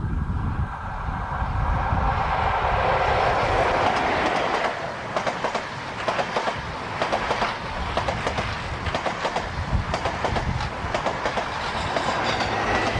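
InterCity 125 High Speed Train passing at speed: the noise builds as the leading diesel power car approaches, then the coaches go by with a rapid clickety-clack of wheels on the track. The rear power car passes near the end.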